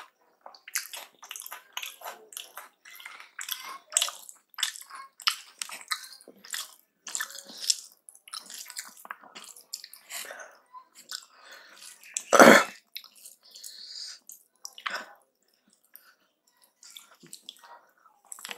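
Close-miked chewing of a mouthful of rice and potato-keema curry: quick short wet mouth clicks, several a second, that thin out in the second half. One much louder sound stands out about two-thirds of the way through.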